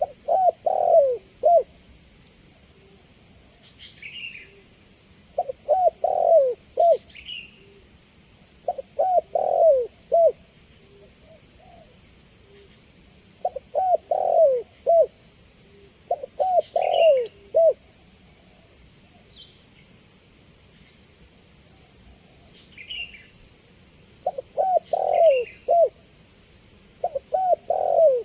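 Spotted dove (tekukur) cooing: about seven phrases of several short coos, each phrase ending on a falling note, repeated every few seconds with pauses between. Faint higher chirps from another small bird and a steady high-pitched insect hiss run underneath.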